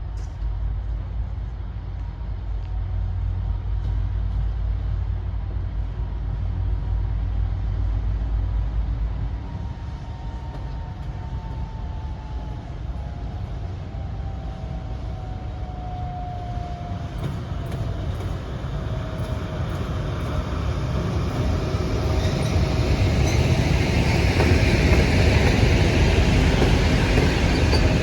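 A train running past on the line. A deep rumble comes first, then a thin whine that slowly falls in pitch, and the rolling noise of wheels on rail grows louder toward the end.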